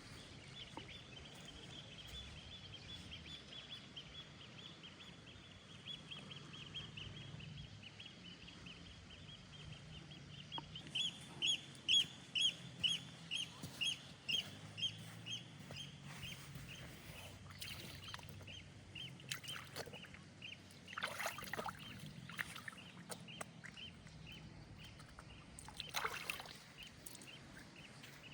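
An animal calling a long run of short, high, repeated notes, about two or three a second, loudest about halfway through and fading toward the end. A few sharp knocks or snaps sound in the second half.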